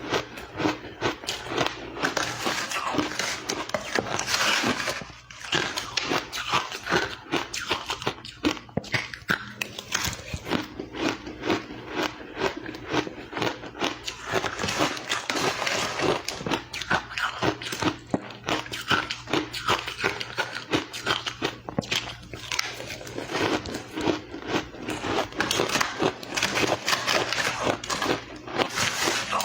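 Close-miked crunching and chewing of powdery crushed ice: a dense, rapid run of crunches with a brief lull about five seconds in.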